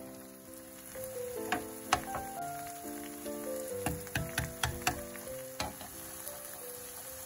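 Potato pancake batter frying and sizzling in olive oil in a frying pan, with a run of sharp clicks and taps in the middle stretch, over background music.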